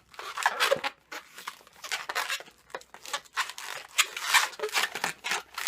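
Latex modelling balloon being twisted and handled by hand, rubbing and squeaking in short irregular bursts as a leg is formed.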